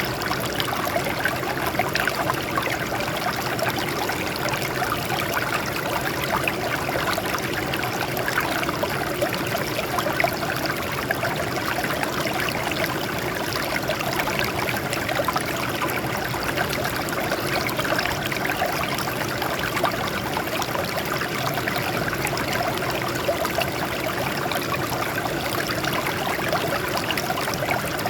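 Water flowing and splashing over rocks in a steady, unbroken rush.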